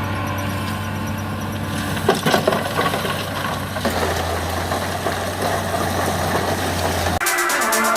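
Heavy earthmoving machine's diesel engine running steadily, with a few knocks about two seconds in and a rougher, noisier sound from about four seconds. Electronic dance music comes in near the end.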